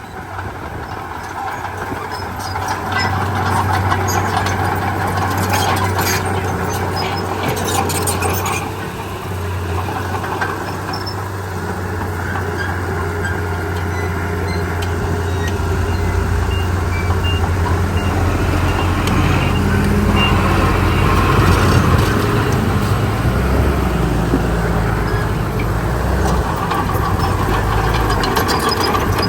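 Heavy diesel machinery running: a steady low engine hum that grows louder over the second half, with sharp metallic clanks and rattles between about three and nine seconds in.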